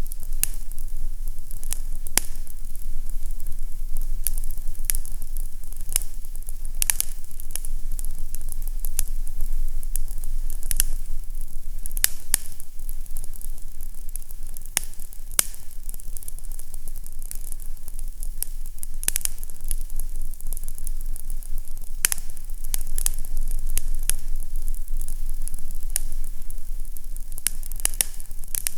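Crackling fire in a fireplace: irregular sharp pops and snaps over a steady hiss, with a low steady rumble underneath.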